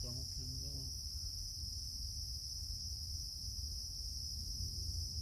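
Night insect chorus, a steady unbroken high-pitched trilling of crickets, over a low steady rumble.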